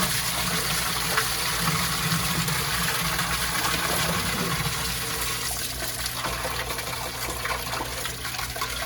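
Water rushing steadily in a sump pit and its discharge pipe, with a low steady hum underneath. It eases off a little about halfway through.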